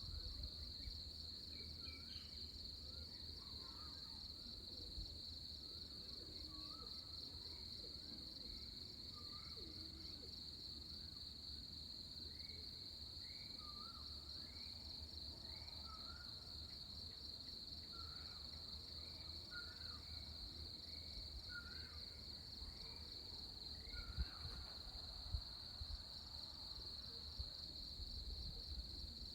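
A steady, high-pitched, pulsing chorus of crickets, with a bird repeating a short rising call about once a second through most of it. A few soft knocks come near the end.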